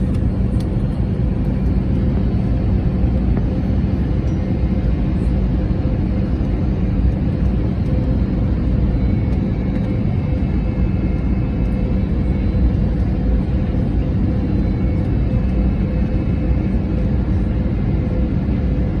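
Steady cabin noise of an Airbus A321neo airliner: the even rumble of engines and airflow, with a constant hum over it.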